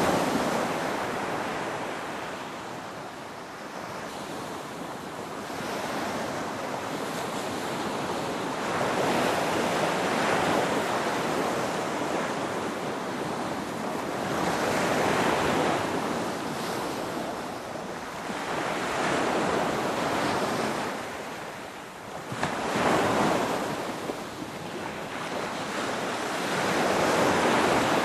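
Ocean waves breaking on the shore, the surf swelling and falling away every four to five seconds.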